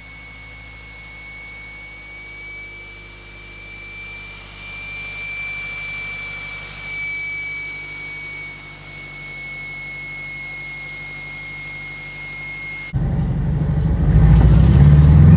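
Scion FR-S's flat-four engine, fitted with a GTX3076R turbo, running with a steady high turbo whistle over a faint low hum. The whistle drifts slightly in pitch. About thirteen seconds in, the engine sound suddenly gets much louder and fuller.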